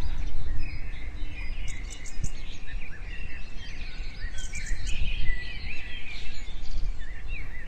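Small birds chirping in a busy stream of short, quick calls, over a steady low rumble.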